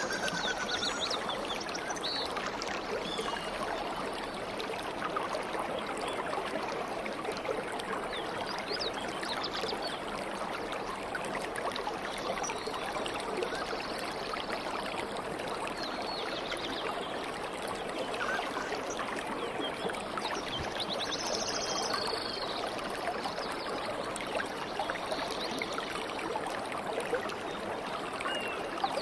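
A stream babbling steadily over stones. Now and then, small birds give short, high chirps above the water.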